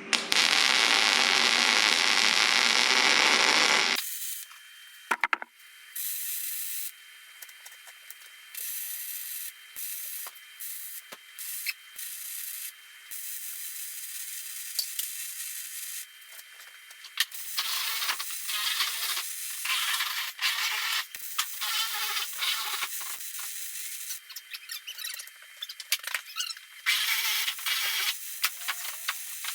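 Steel being welded: many short bursts of crackling hiss that start and stop, after a steady loud rush in the first four seconds.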